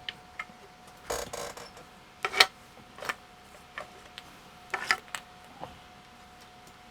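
Scattered clicks and knocks of small hard parts and tools being handled, with a short scraping rattle about a second in and the loudest knock a little over two seconds in. A faint steady high tone hums underneath.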